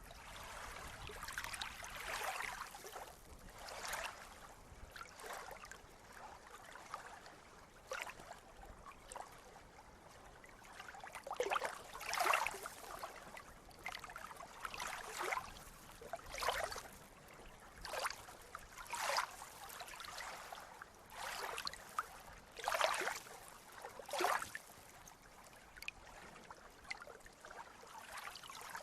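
Small sea waves lapping and splashing, in short irregular splashes every second or so over a steady wash of water.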